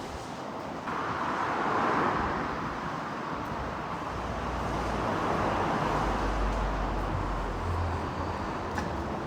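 Road traffic noise, a steady hiss of passing vehicles that starts suddenly about a second in and swells and fades, with a low rumble in the middle.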